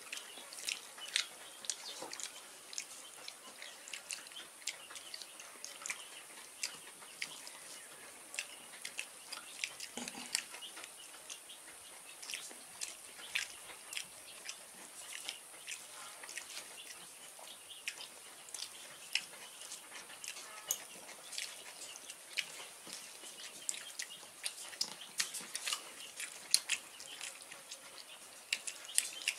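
Two people eating rice and curry with their hands: chewing and lip smacks, a steady run of small irregular clicks.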